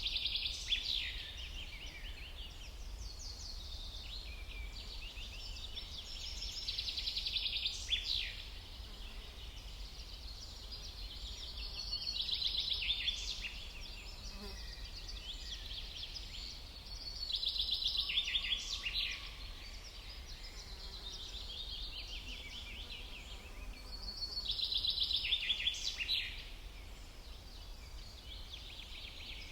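A songbird singing the same phrase over and over, a quick run of rapid high notes ending in a couple of fast downward sweeps, about every six seconds, over a steady low rumble.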